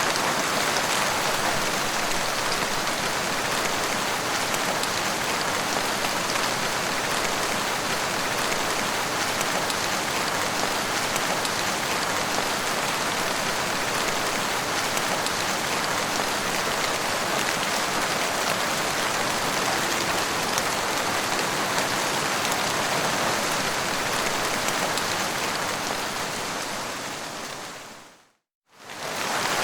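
Steady rain falling, an even hiss with no thunder. About 28 seconds in it fades out to a brief silence and then fades back in, the seam of a looped recording.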